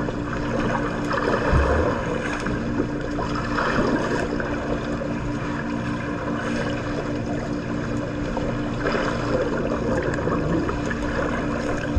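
Water splashing and churning in a swimming pool, rising and falling in waves, over a steady low hum. A dull low bump comes about a second and a half in.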